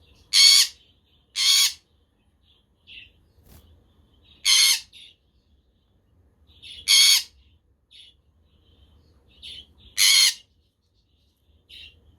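Pet parrots squawking: five loud, harsh calls of about half a second each, a few seconds apart, over faint soft budgie chirping.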